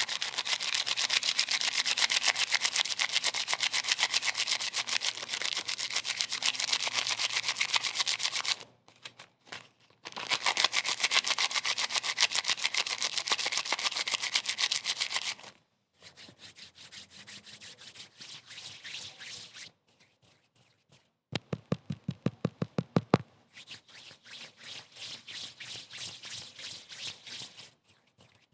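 Fast, even rubbing strokes in runs of several seconds with short pauses between, louder in the first half and softer later. About three-quarters of the way in comes a short run of deeper, evenly spaced knocks.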